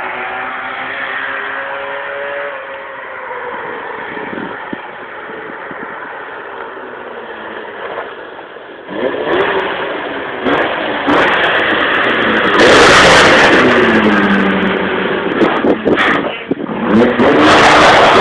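Car engine revving hard under acceleration, its pitch climbing and dropping. It is fairly quiet for the first half, gets much louder about halfway through, and is loudest just after that, with a falling pitch; another loud burst of revving comes near the end.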